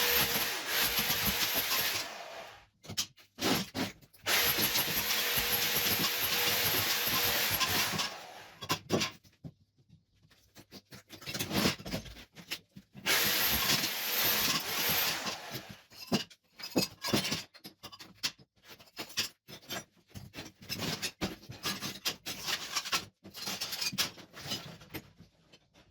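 An electric power tool runs in two long bursts as old ceramic wall tiles are removed. It is followed by a long series of irregular sharp knocks, scrapes and clatters of tiles and rubble being chipped off and falling.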